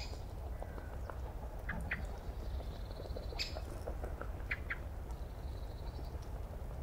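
Short, scattered bird chirps and calls over a steady low background hum.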